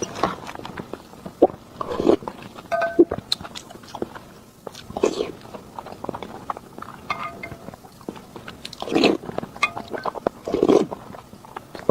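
A person eating close to the microphone, biting and chewing food, with many short clicks and clinks and a few louder, longer mouth sounds.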